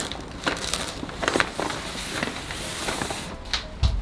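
Crinkling and rustling of plastic and cardboard packaging as a delivered parcel is handled and opened, with scattered sharp crackles and a dull thump near the end.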